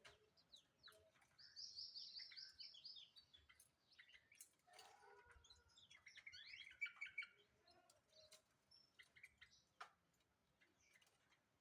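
A white-eye (pleci) singing faintly: quick runs of high chirping notes, in two main bursts with shorter calls between, and a few sharp clicks.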